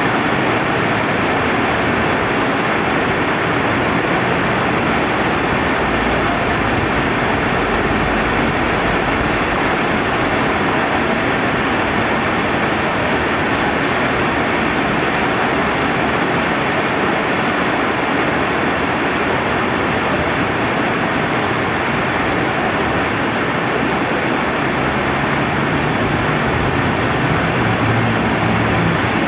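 Steady rain falling by a flowing river: an even, unbroken rushing hiss of rain and water.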